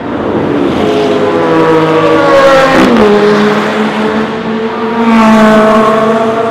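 Ferrari 458 Speciale's 4.5-litre V8 accelerating hard, its pitch climbing, dropping sharply at an upshift about three seconds in, then climbing again.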